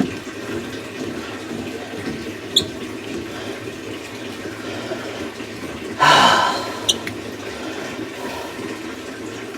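Water running steadily into a washing machine stuck in its fill cycle, its inlet valve failing to shut off at the end of the cycle, with a louder rush of water about six seconds in.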